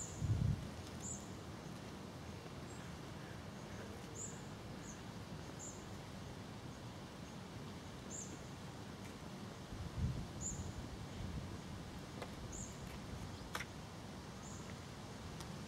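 Outdoor background noise with a small bird calling: a faint, short, high chirp repeated every second or so. Two brief low thumps stand out, one just after the start and one about ten seconds in.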